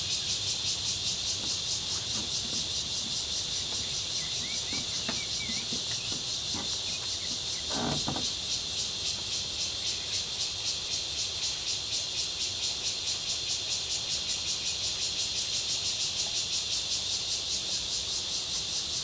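Dense insect chorus: a steady high buzzing that pulses rapidly and evenly throughout, with a soft knock about eight seconds in.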